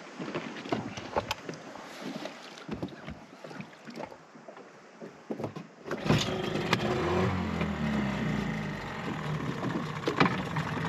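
Knocks and clunks of gear being handled in a small boat. About six seconds in, an outboard motor's running sound comes in abruptly and carries on steadily.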